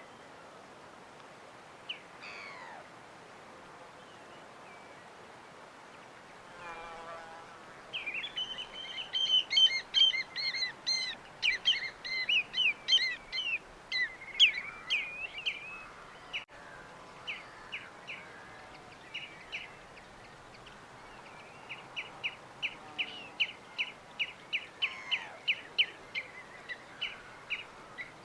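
Small birds chirping and singing over a steady faint background hiss. After a few scattered calls, a busy run of quick high chirps starts about eight seconds in. It thins later to a string of short repeated chirps, several a second, near the end.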